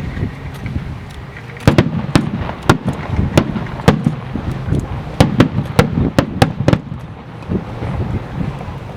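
Aerial fireworks shells bursting overhead: a quick series of sharp bangs from about two to seven seconds in, over continuous lower booming.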